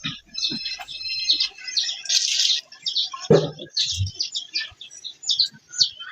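Small birds chirping: many quick, high chirps follow one another throughout. About three seconds in there is one brief, louder and lower sound.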